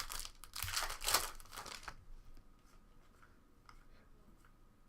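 Trading-card pack wrapper being torn open and crinkled for about two seconds, then quieter, with a few faint ticks.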